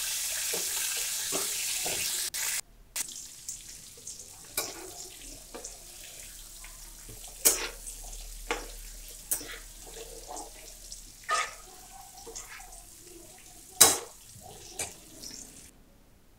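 Curry leaves sizzling loudly as they hit hot oil in a nonstick pan, for about two and a half seconds, then it cuts to a much quieter frying sound. Over the quieter part, a spatula stirs the vegetables, scraping and tapping against the pan with a few sharp knocks.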